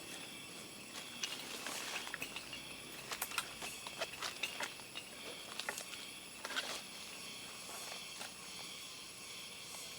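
A steady, high insect chorus at night, with irregular crackling, rustling clicks from about one to seven seconds in, like movement through dry leaf litter.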